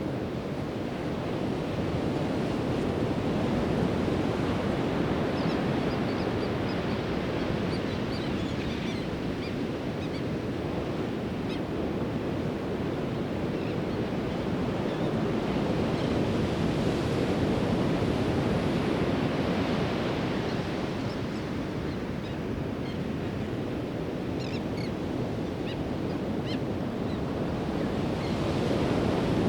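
Pacific Ocean surf breaking and washing up the beach: a continuous rush of water that swells louder and eases back every ten seconds or so as each set of waves comes in.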